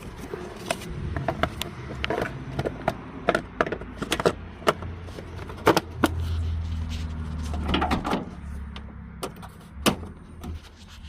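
Plastic fuse-box cover and trim being handled and clicked back into place: a string of sharp clicks and knocks, with a steady low hum for a couple of seconds in the middle.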